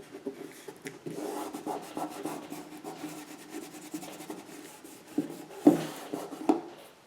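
Hands rubbing a freshly glued paper cut-out down onto a cradle panel, a continuous scratchy rubbing that warms and presses the glue-stick adhesive so it grips. Near the end come two sharp knocks, the loudest sounds.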